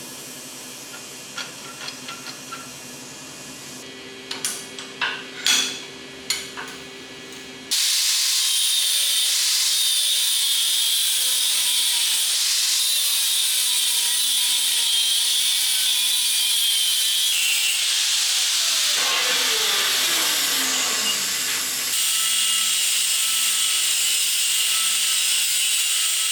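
Workshop tool sounds: a few light taps and clicks, then a sudden loud, steady hiss of power-tool work that carries on. About two-thirds of the way through, a tone falls steadily in pitch.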